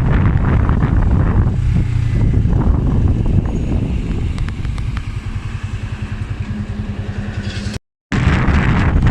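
Motorcycle ride heard from the bike: engine rumble and wind buffeting the microphone. About halfway through, it turns quieter and steadier, with an even pulsing engine note. It cuts out briefly near the end, then the rumble resumes.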